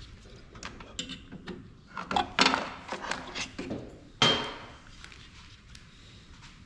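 Knocks and clatter of parts of a Zebra ZM400 thermal printer being handled during disassembly, with a busy run of knocks in the middle and one sharp metallic clank that rings briefly about four seconds in.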